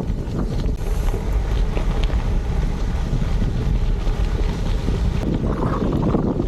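Wind buffeting the microphone of a moving gravel bike, a steady rushing noise with a strong low rumble.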